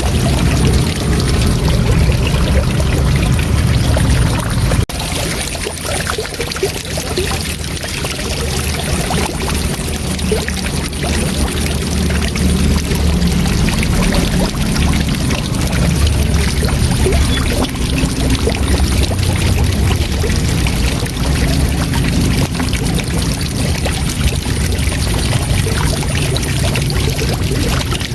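Waterfall rushing, a steady dense wash of falling water with strong low rumble; the level drops briefly about five seconds in and then evens out again.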